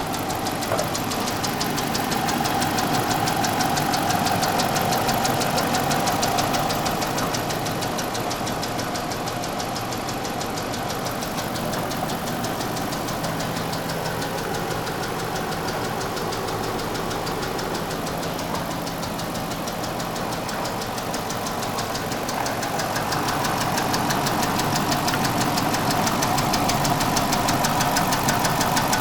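Engine of a 2013 Dodge Charger police car running with a fast, even knocking tick, a sign of the car's engine trouble. It gets slightly louder for a few seconds near the start and again near the end.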